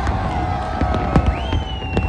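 Fireworks going off, three sharp bangs about a second apart, over a steady low rumble and a sustained mix of tones. A high whistle rises and holds from about halfway through.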